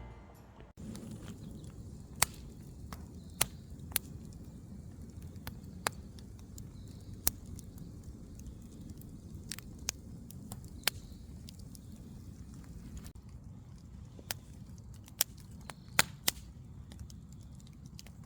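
Wood fire burning in a fire pit, crackling with irregular sharp pops over a low steady noise.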